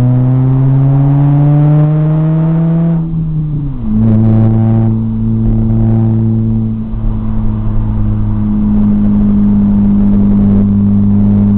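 Supercharged 2.0-litre four-cylinder of a 2006 Chevrolet Cobalt SS with a 3-inch exhaust, heard from inside the cabin: it pulls up in pitch for about three seconds, falls away, then settles into a steady drone at cruise.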